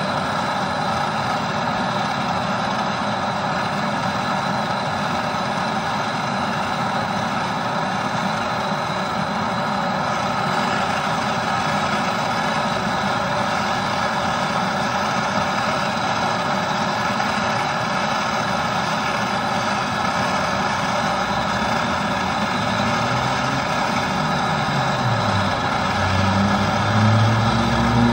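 A steady mechanical running noise, like a motor or pump, with many fixed tones. Near the end a lower drone comes in and shifts in pitch.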